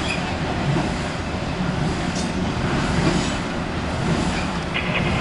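Norfolk Southern double-stack intermodal freight train's container cars rolling across a steel girder bridge: a steady rumble of wheels on rails. A high-pitched tone starts near the end.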